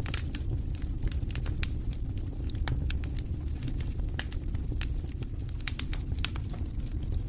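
Campfire burning with irregular sharp crackles and pops over a steady low rumble of flame.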